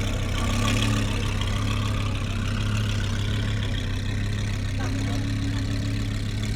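A car engine idling steadily, a constant low hum, amid background crowd chatter.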